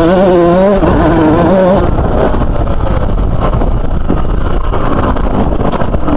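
Two-stroke motocross bike engine revving, its pitch rising and falling for the first couple of seconds, then a loud, rough rumble without a clear note.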